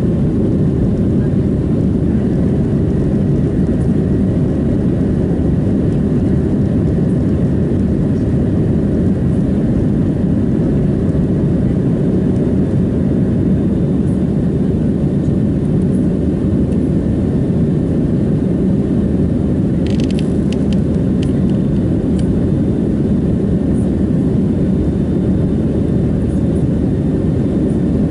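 Cabin noise of a Boeing 737-700 with CFM56-7B turbofans in flight: a steady, deep engine and airflow drone. A few brief clicks come about twenty seconds in.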